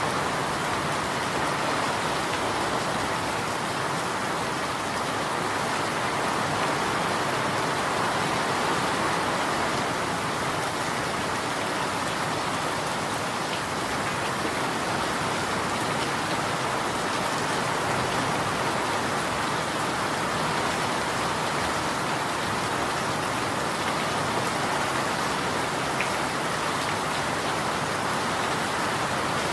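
Steady rain falling on a surface, an even, unbroken hiss of raindrops with no thunder.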